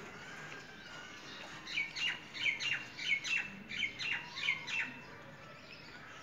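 A bird chirping: a quick run of about ten short, high calls, each dropping in pitch, about three a second, starting nearly two seconds in and stopping about three seconds later.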